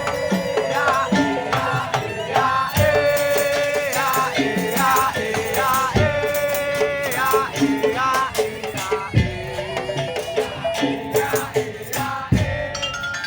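Madurese tong-tong ensemble playing live: a melody over rattles and dense percussion, with a deep drum hit about every three seconds.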